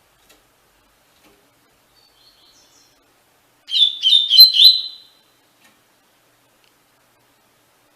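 Double-collared seedeater (coleiro) singing one short phrase of the 'tui-tui' song: a quick run of about five clear whistled notes, lasting just over a second, about halfway in.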